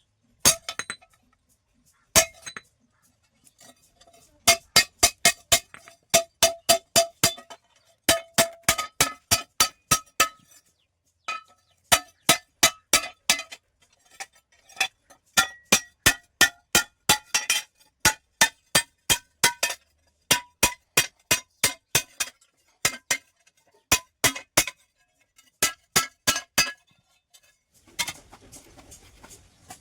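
Hammer blows on steel over an anvil, each strike ringing, in runs of several blows about four to five a second with short pauses between runs; the strikes stop shortly before the end.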